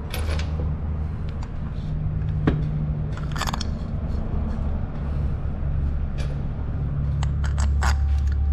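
Small metal clicks and clinks of bolts being handled and set into a new stator on a Yamaha FZ engine, scattered irregularly over a steady low hum.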